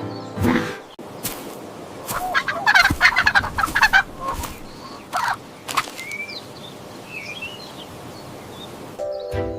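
Turkey gobbling: a rapid rattling burst of calls about two seconds in, then a few shorter single calls, with faint small chirps after. Music comes back in at the very end.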